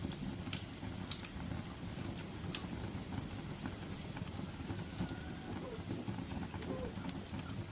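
Wood fire burning with a steady low rumble and scattered sharp crackles and pops, the sharpest about two and a half seconds in.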